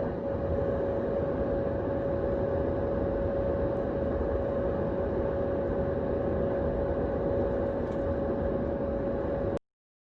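A motor running steadily with a constant whine over an even rushing noise, cutting off suddenly near the end.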